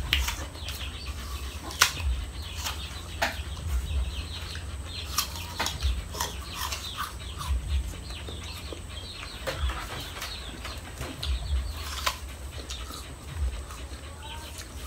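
Close mouth sounds of people eating fried street food by hand: chewing, lip smacks and small clicks, irregular throughout, over a low rumble.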